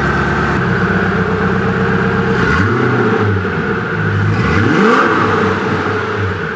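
Koenigsegg CCXR Trevita's twin-supercharged V8 running just after a jump-start, idling steadily and then revved briefly twice, its pitch rising and falling each time.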